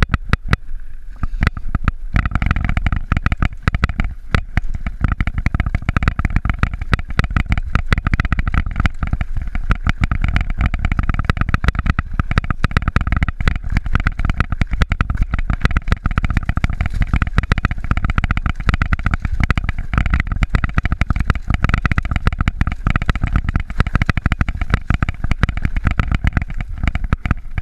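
Mountain bike riding over a rough trail: wind rumbling on the microphone over a dense run of small rattles and knocks from the bike and camera mount. The middle of the noise eases briefly about a second in.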